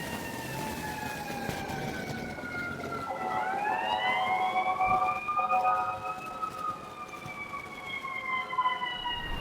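Emergency vehicle siren with a slow rise and fall in pitch: it falls gradually, climbs again a few seconds in, then slowly falls away.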